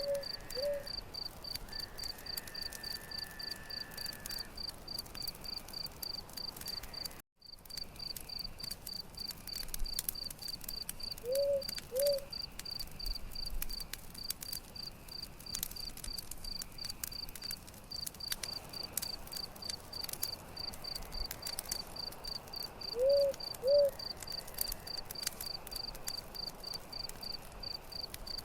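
Crickets chirping in a steady, rapid high-pitched pulse, over the scattered crackles and pops of a campfire. A short low two-note call sounds three times, about every eleven seconds, and all sound drops out for an instant about seven seconds in.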